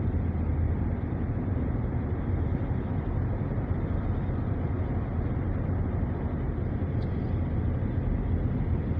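Steady road and engine noise inside a moving SUV's cabin: a low, even rumble with tyre hiss.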